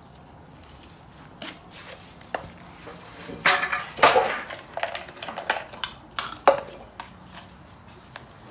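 Small shovel scraping and scooping dirt in a bucket: a run of irregular scrapes and knocks, busiest about halfway through, with a sharp knock near the end.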